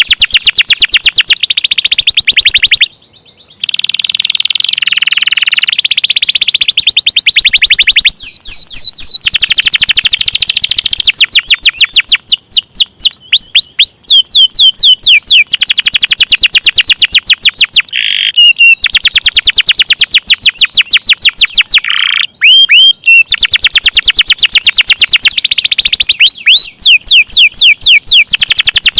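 Domestic canary singing loud, long rolling trills of fast repeated notes mixed with quick rising and falling sweeps. The song breaks off briefly twice, about three seconds in and again about two-thirds of the way through.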